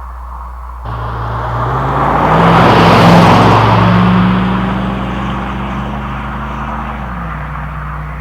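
1999 Chevrolet Silverado's 5.3L LM7 V8 breathing through a Cherry Bomb straight-through muffler, accelerating. The engine note comes in suddenly about a second in and rises in pitch to its loudest around three seconds in, holds steady, then drops a step in pitch near the end.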